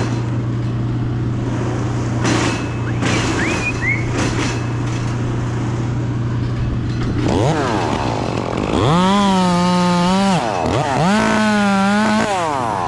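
Two-stroke chainsaw: a steady low engine hum with scattered knocks, then about seven seconds in the saw revs up and runs at full throttle twice, each time for about a second and a half, dipping briefly in between, as it cuts through a branch.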